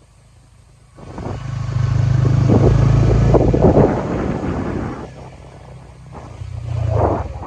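Motorbike engine running close by, loud from about a second in, easing a little past the middle and rising again near the end.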